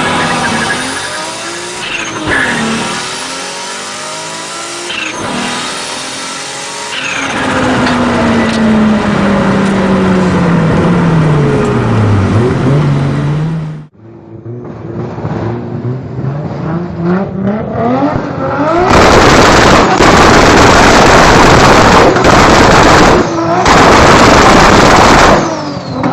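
Toyota Supra's turbocharged engine revving hard, its note climbing and dropping several times as revs rise and fall through the gears. After an abrupt cut about halfway through, the engine note climbs again and turns into a very loud, harsh full-throttle sound for several seconds, broken twice by brief gaps.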